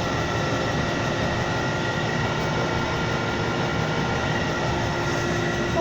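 Milling machine running steadily, its cutter taking a shallow pass in hardened steel: a constant mechanical rush with a few steady whining tones over it.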